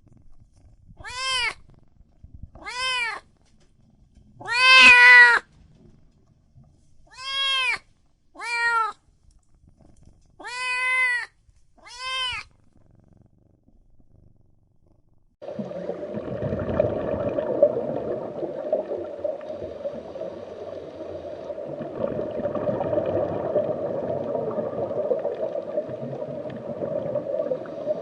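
A cat meowing over and over: seven meows in about twelve seconds, each rising and then falling in pitch, with the one about five seconds in the loudest and longest. After a few seconds' pause, a steady noisy sound starts and carries on.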